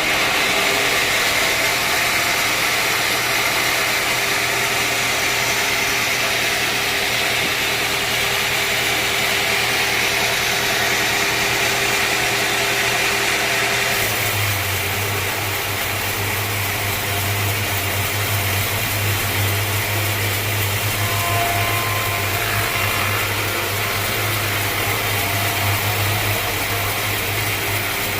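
Sawmill machinery running steadily, a low mechanical drone under a hiss. About halfway through the sound changes abruptly and the low drone becomes stronger.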